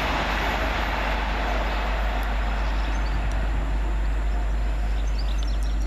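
Great Western Railway Class 800 Hitachi intercity train passing through at speed, its rushing noise fading away over the first few seconds. Birds chirp near the end.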